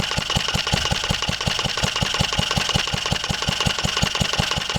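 1954 Wolseley WD8 single-cylinder stationary engine running steadily unloaded, a quick even beat of about eight beats a second.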